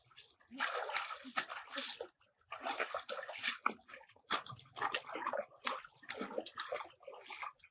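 Water splashing and sloshing in a series of irregular bursts, with sharp splatters between them.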